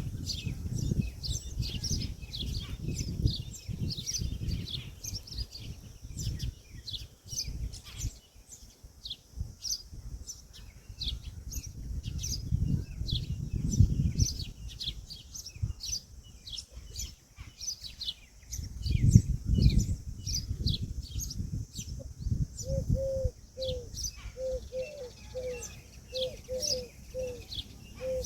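Many small birds chirping in short, high notes, with bursts of low rumble now and then. Later on a low, soft call repeats about twice a second.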